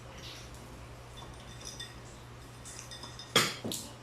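Tableware at a meal: a few faint clinks of cutlery and dishes, then two sharp clacks close together about three and a half seconds in, over a steady low hum.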